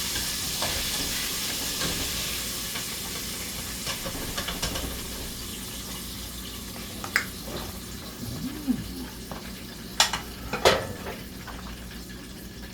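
Chicken drumettes frying in hot grease, a steady sizzle that slowly fades, with a few sharp clicks and knocks about four, seven and ten seconds in as the batch is worked and taken out.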